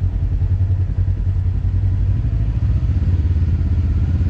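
A vehicle engine running steadily, a deep, even rumble.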